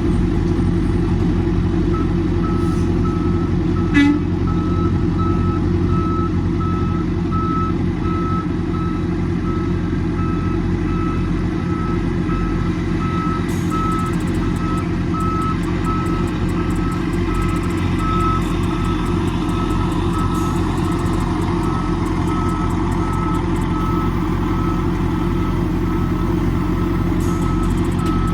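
Semi truck's diesel engine running steadily while a backup alarm beeps in a steady repeating pattern, starting about two seconds in, as a refrigerated trailer is backed into a loading dock. A single sharp knock sounds about four seconds in.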